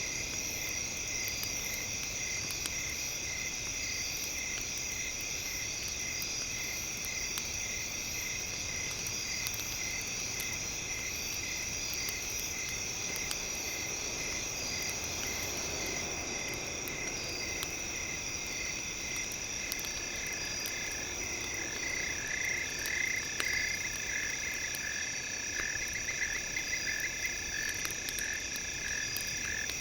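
Night nature ambience: a steady chorus of crickets and other insects, with a chirp repeating about twice a second. About two-thirds of the way through, frogs begin calling in quick repeated croaks.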